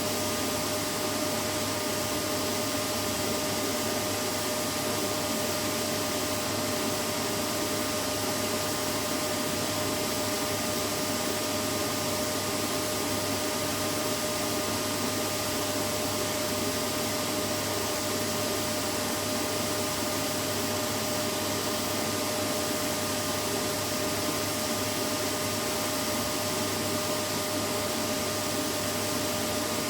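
Vacuum cleaner running steadily: a constant rush of air with an even whine that never changes.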